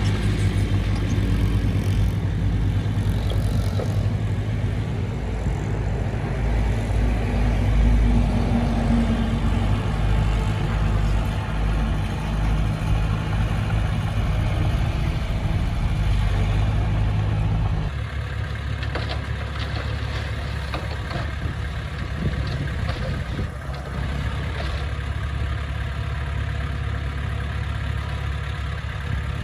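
Heavy diesel engine of earthmoving equipment running steadily. About eighteen seconds in, the sound changes abruptly to a slightly quieter, different engine note.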